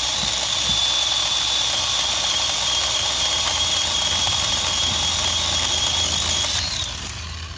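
Ryobi P546 18-volt cordless chainsaw running with a steady high electric-motor whine over the chain noise. The pitch sags slightly, then rises briefly just before the saw stops near the end.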